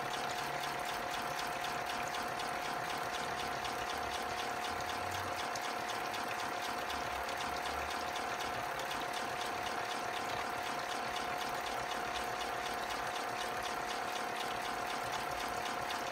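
Europlay Tide Juniors Home toy washing machine running its wash cycle: its small electric motor gives a steady whine while water sloshes in the drum.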